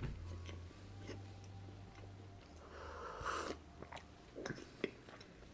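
Faint chewing of a cookie, with small wet mouth clicks, then a sip of tea from a glass mug a little after three seconds in.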